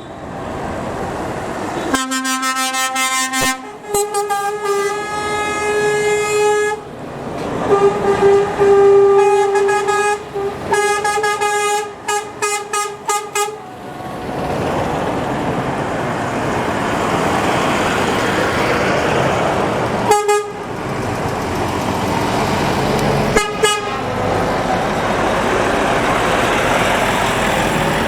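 Passing trucks sounding their horns: long and short blasts at a few different pitches, ending in a quick run of short toots, then the noise of truck engines and tyres going by, broken by two more brief horn blasts.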